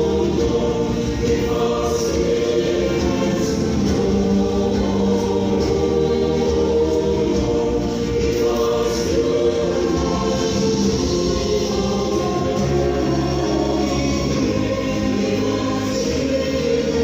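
A choir singing in parts, holding long sustained chords.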